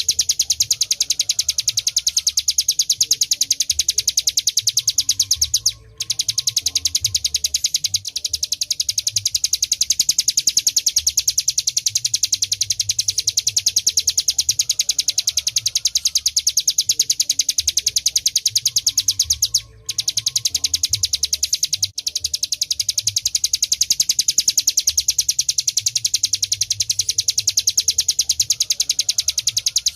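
Ciblek gunung singing a fast, unbroken, drill-like trill ('ngebren'), high-pitched and steady. It breaks off briefly about 6 s and 20 s in.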